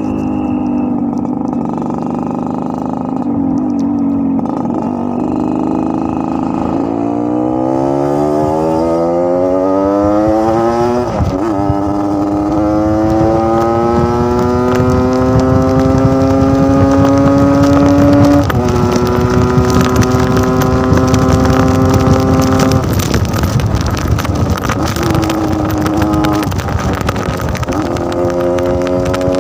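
Yamaha RX-King single-cylinder two-stroke motorcycle engine running, steady at first, then climbing slowly in pitch and dropping suddenly several times, as at gear changes while under way.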